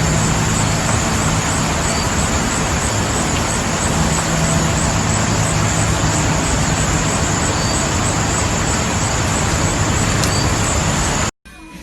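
Loud steady rushing noise with a low hum underneath, like a motor running, cutting off abruptly about a second before the end.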